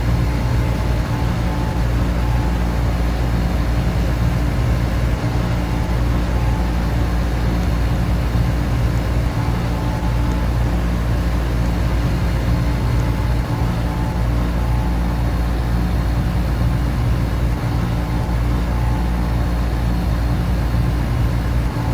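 Air conditioner and electric fans running steadily: a constant low hum with a few steady tones over an even whir.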